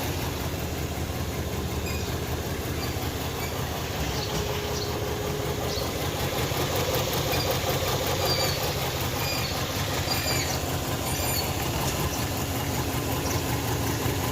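Hyundai Tucson engine running steadily, a low even rumble, while its ECM gives no injector pulse to cylinders 3 and 4. Faint short high chirps come through about two-thirds of the way in.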